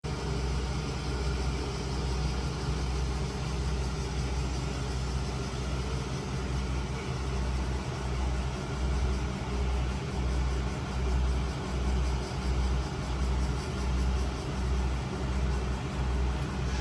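Diesel railcar engine running at idle with a deep throb that pulses about once a second.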